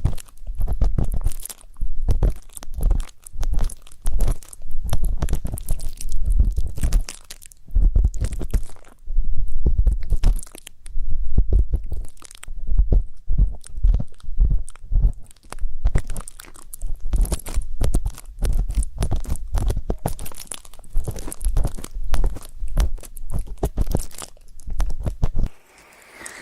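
Ear-cleaning ASMR: an ear pick scratching and scraping in an ear close to the microphone, a rapid, uneven run of crackly scrapes with dull low thumps. It stops about a second before the end.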